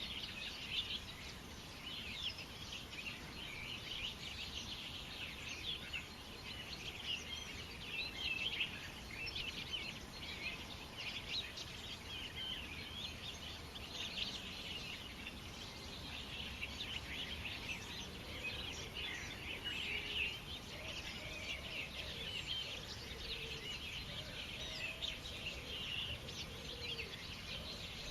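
Many small birds chirping and twittering together in a continuous chorus, with fainter, lower-pitched calls joining in during the second half.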